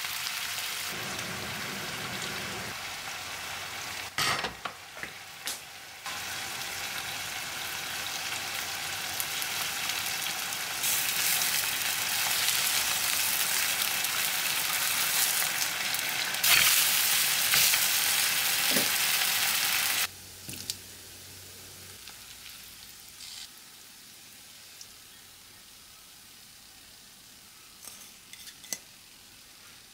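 Food frying in pans, a steady sizzle: beef bulgogi stirred with a silicone spatula, then chive pancake batter frying in oil. The sizzling stops abruptly about two-thirds of the way through, and after that it is much quieter, with a few light clicks.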